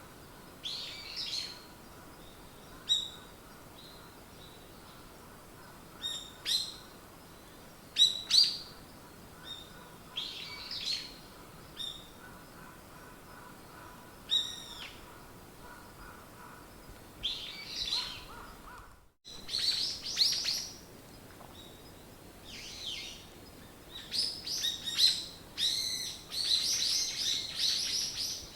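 Wild songbirds chirping and singing: short, high-pitched calls and quick trills, scattered at first and growing into a busier chorus near the end. The sound drops out for an instant about two-thirds of the way in.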